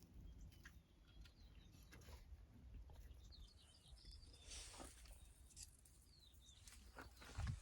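Near silence, with a few faint, short, high chirps a little over three seconds in and a dull low bump near the end.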